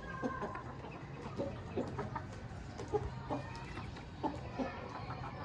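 Aseel chickens clucking, a scatter of short soft clucks from several birds.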